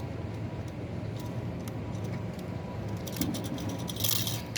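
Metal clinks and rattles, as of hand tools or parts being handled, from about three seconds in to near the end, over a steady low hum.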